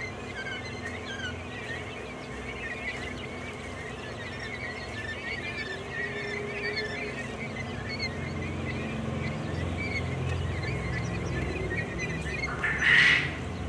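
A flock of quail chirping continuously in many short, high calls, with one louder call near the end, over a low steady hum.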